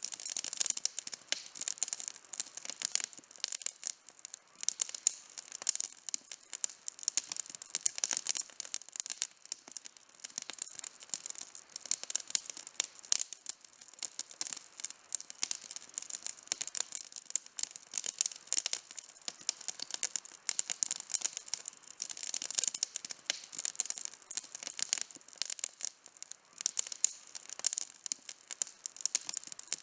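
Campfire burning outdoors, wood crackling and popping continuously with many sharp snaps.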